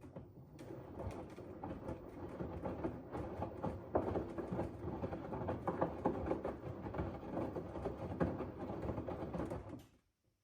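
LG front-loading washing machine drum turning during the wash, with wet laundry tumbling and water sloshing and pattering. The drum stops near the end and goes quiet, as the drum does between turns in a wash cycle.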